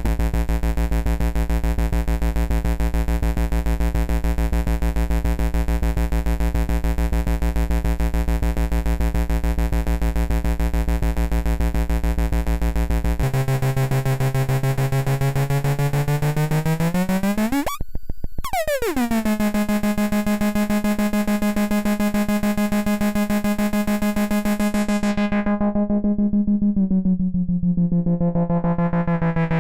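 ADDAC105 4 Voice Cluster Eurorack synth voice playing a buzzy, overtone-rich tone with a fast pulsing flutter. Its pitch steps about a third of the way in, then sweeps sharply up and back down around the middle. Near the end its brightness fades to a dull tone and then opens up again.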